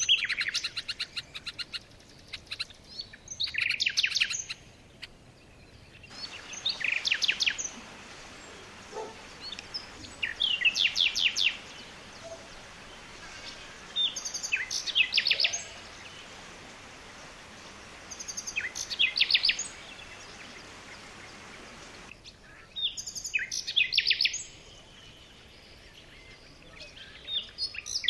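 A songbird singing short phrases of rapid, high chirping notes, one phrase every three to four seconds, over a faint steady hiss.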